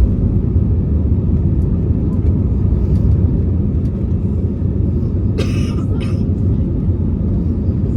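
Steady low rumble of a jet airliner's engines, heard from the ground. A short hissing burst comes about five and a half seconds in.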